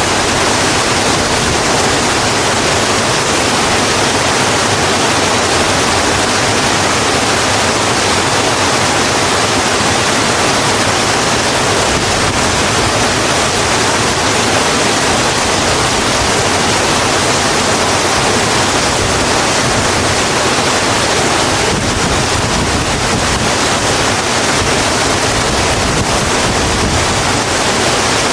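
Steady, dense rain falling on a road: an even hiss with no distinct drops, thunder or changes.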